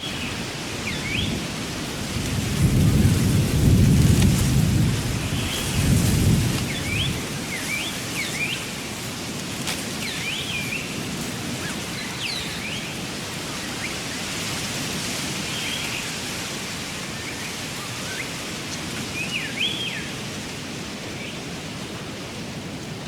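Steady rain with a low roll of thunder that swells about two seconds in and fades by about seven seconds, and short high chirps scattered throughout.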